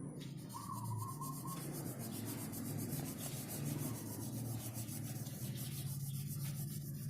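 Colouring on paper: rapid back-and-forth strokes make a steady scratchy rubbing.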